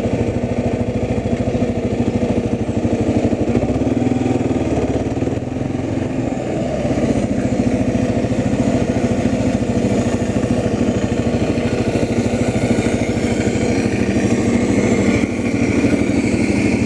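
An engine running steadily at a constant speed, without revving.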